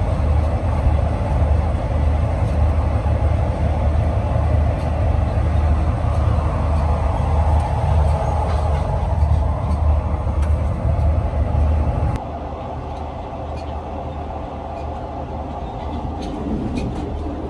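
Sleeper train running, a steady low rumble of wheels on the rails. About twelve seconds in it drops abruptly to a quieter, lighter rumble, with a few faint clicks near the end.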